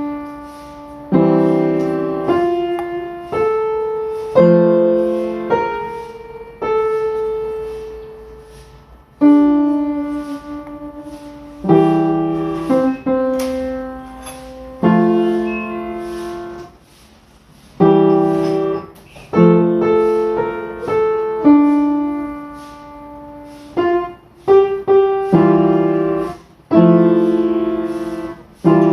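Solo piano music: slow chords and single notes struck one after another, each left to ring out and fade.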